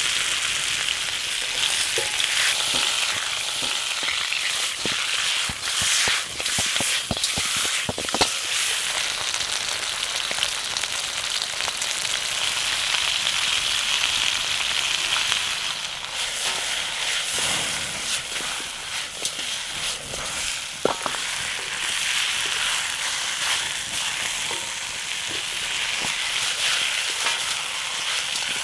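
Chicken pieces frying in oil in a black wok over a wood fire: a steady sizzle with scattered sharp pops, clustered about six to eight seconds in and again past twenty seconds. The chicken is stirred with a wooden spatula near the end.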